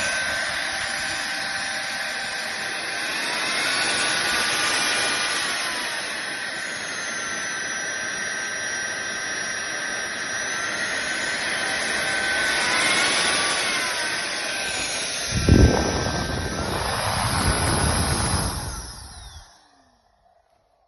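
SunSare X7A cordless stick vacuum running, a steady rush of air with a motor whine whose pitch rises twice for a few seconds and falls back. A low thump comes about three-quarters of the way through, then the sound dies away to near silence.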